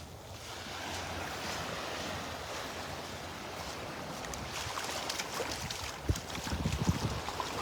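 Gulf surf washing onto the beach, with wind buffeting the microphone in gusts that grow stronger near the end.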